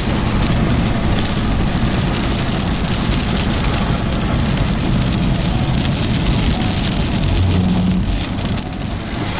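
Steady rumble and hiss inside a moving car in a storm: road and wind noise with rain on the car.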